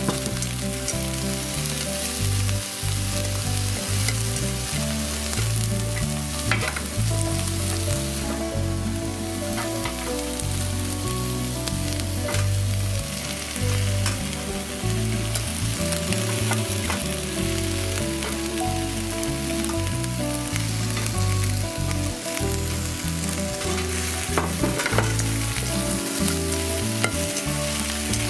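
Eggplant and chicken breast pieces sizzling in oil in a frying pan, stirred and turned with chopsticks, with a few light clicks against the pan.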